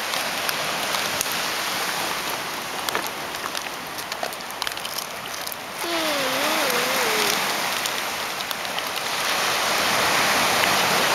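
Beach bonfire crackling and popping, with surf washing in: the rush swells about six seconds in and again near the end. A short wavering tone, like a voice or call, comes just after the first swell.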